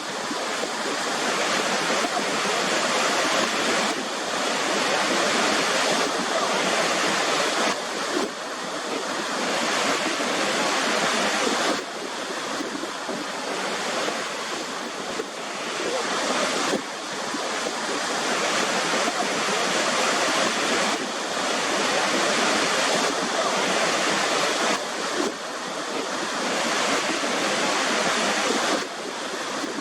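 Waterfall: a steady rush of falling water, with sudden small drops and jumps in level every few seconds.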